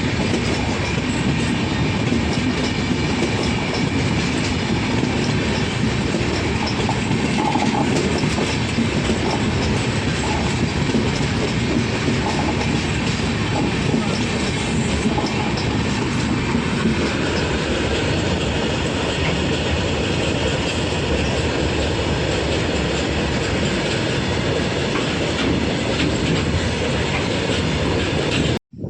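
Indian Railways superfast express train passing at high speed, its coaches rushing by with wheels clattering over the rails in a loud, steady rush. It cuts off abruptly near the end.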